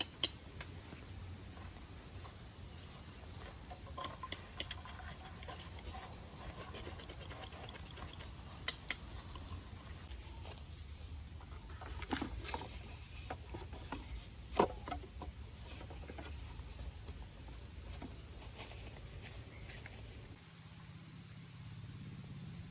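Steady high-pitched insect chorus, such as crickets, with a few sharp clicks and knocks scattered through it.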